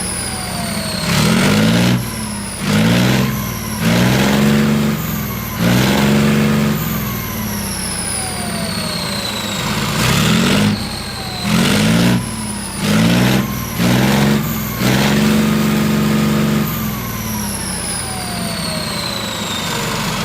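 Leopard 2A7 tank's MB 873 twin-turbo V12 diesel idling and being blipped about nine times in quick bursts, each rev rising then dropping back. After the revs, high whines glide slowly down in pitch.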